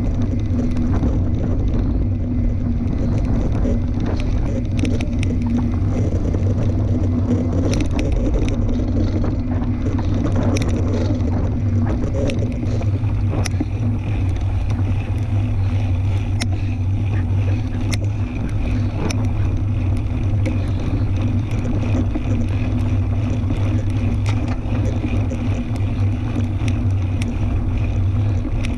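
Fat-tire tandem bicycle riding over a trail: a steady droning hum with scattered clicks and ticks.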